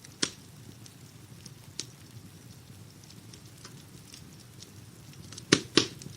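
Wood fire crackling in a fireplace: a low steady rumble with scattered small crackles, one sharp pop just after the start and two loud pops in quick succession near the end.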